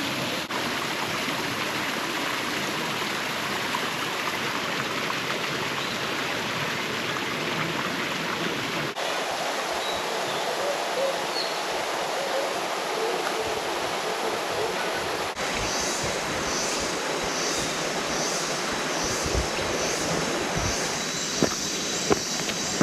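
A shallow rocky river stream running: a steady rush of flowing water. In the later part a high pulsing buzz joins, repeating about one and a half times a second.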